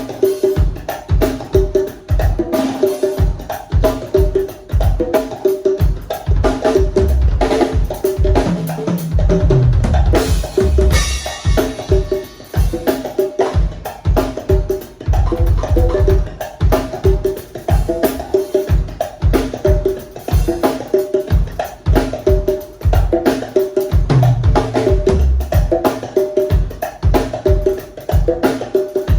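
A drum kit and congas played together in a steady, busy groove: deep bass-drum strokes under repeated pitched drum tones, with a cymbal wash around ten seconds in.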